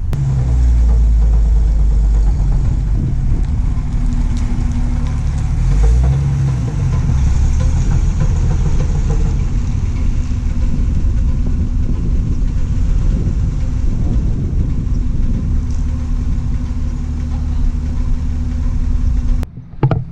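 Car engine running under way on a drive, its pitch shifting several times as it speeds up and changes gear, the sound cutting off abruptly near the end. The engine is one whose owner is chasing a worsening knock.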